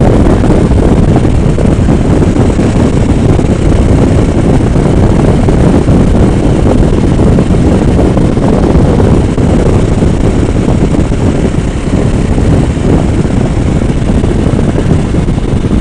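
Steady wind rush buffeting the microphone on a moving motorcycle, with engine and road noise mixed in underneath.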